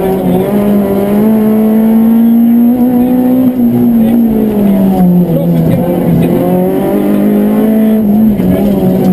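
Citroën Saxo rally car's four-cylinder petrol engine at high revs, heard inside the cabin over road noise. The revs climb through the first three seconds, fall away about four seconds in, build again and drop once more near the end.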